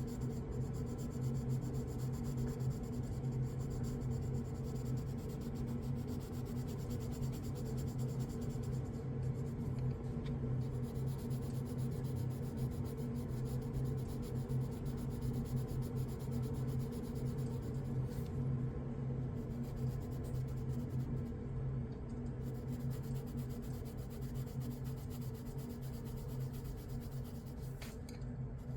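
Coloured pencil shading on paper: a continuous run of quick, scratchy back-and-forth strokes, over a steady low hum.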